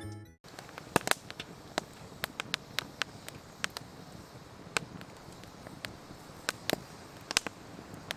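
Background music ends just at the start; then a wood campfire crackles, with irregular sharp pops and snaps over a faint steady hiss.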